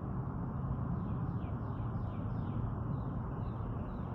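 Small birds chirping: a quick run of short descending chirps about a second in and a few more near the end, over a steady low rumble.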